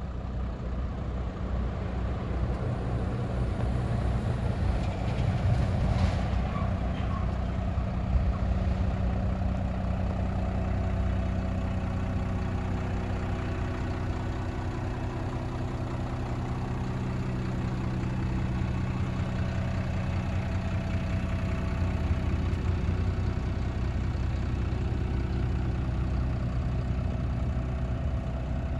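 Scania P280 truck's diesel engine idling steadily.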